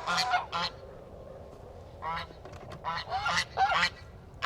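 Domestic geese honking: a quick run of honks at the start, then several more from about two seconds in.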